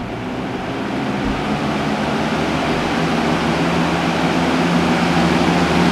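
Lasko 3733 box fan starting up and running: a steady rush of moving air over a low motor hum, growing gradually louder as the blades come up to speed.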